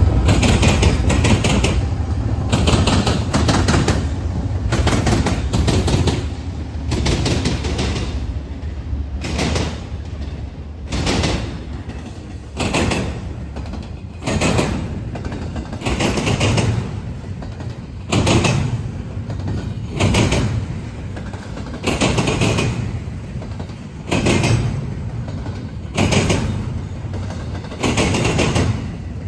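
A slow intermodal freight train passing: the low rumble of the locomotives fades over the first several seconds, then the wheels clack over the rail joints about every two seconds as the cars roll by.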